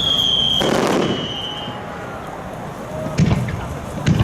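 Aerial fireworks going off: a high whistle that falls steadily in pitch for over a second, a burst about half a second in, then two sharp bangs about three and four seconds in.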